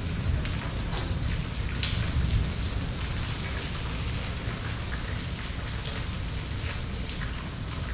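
Steady rain falling, with many individual drops tapping distinctly over the hiss of the downpour and a constant low rumble underneath.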